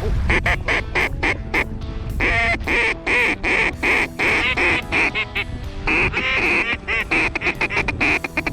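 Duck quacking in fast, loud runs of short notes, several a second, with brief pauses between the runs, over a steady low wind rumble.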